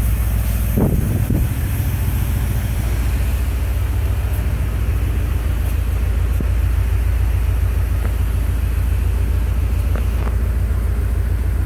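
1989 Porsche 928 S4's 5.0-litre 32-valve V8 idling steadily, an even low rumble with a fast regular pulse, running again after seven years of sitting.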